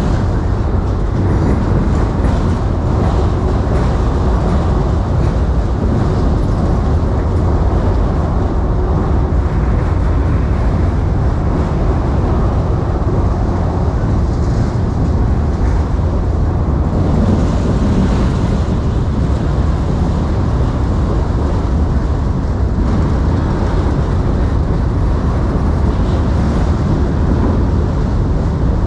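Freight cars rolling past: a loud, steady rumble of steel wheels on rail.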